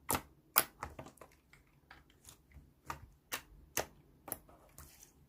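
A run of about a dozen sharp typing clicks, two to three a second at an uneven pace, like keyboard taps while a chat message is typed out.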